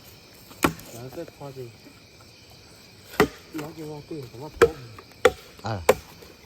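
A blade chopping into bamboo stems: four or five sharp, hard chops at irregular intervals, as the bamboo is cut open to look for bamboo worms.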